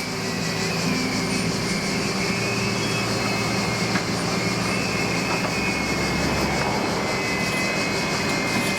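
Heavy machinery engine running steadily, a low hum with a thin high whine over it.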